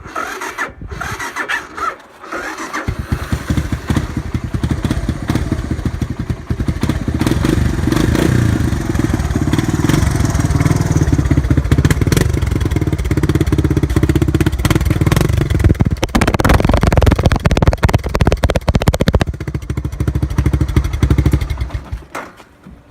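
1985 Honda ATC 250 three-wheeler's engine being cold-started on a weak battery: it cranks briefly, catches about three seconds in, runs steadily, then is shut off near the end.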